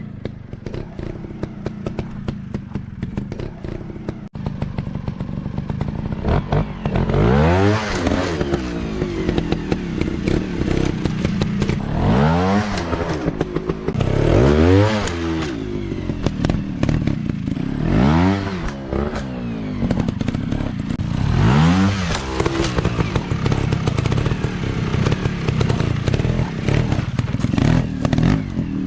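Dirt bike engines running and revving hard over and over, their pitch climbing and dropping with each rev, about half a dozen big revs in all.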